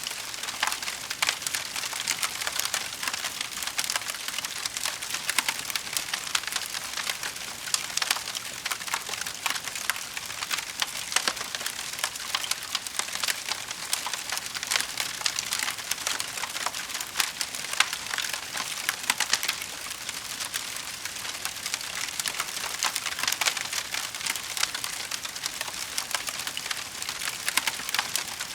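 Wood fire crackling in a fireplace, with a steady stream of small pops and snaps.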